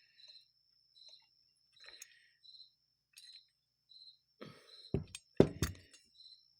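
A cricket chirping at an even pace, about one short chirp every three-quarters of a second. Midway through, a few sharp knocks and clinks come from carburetor parts being handled and fitted together; the loudest is about five and a half seconds in.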